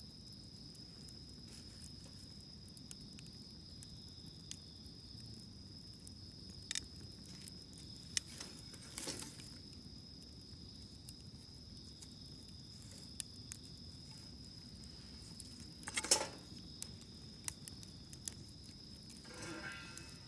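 Wood fire crackling with scattered sharp pops, the loudest about sixteen seconds in, over a steady high insect trill.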